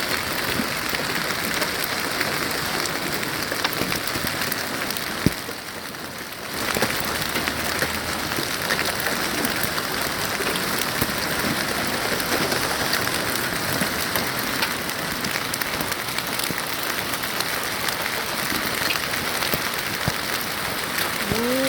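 Hail and rain pelting down, a dense, steady clatter of countless small impacts. A sharp knock about five seconds in, after which the noise drops away for about a second before coming back.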